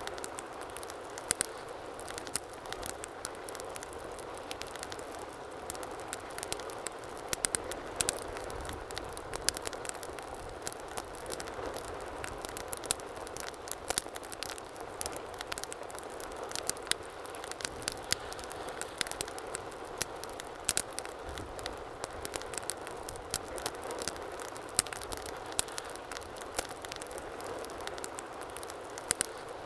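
Wood fire burning with a steady hiss and frequent sharp crackles and pops, a few louder snaps scattered through.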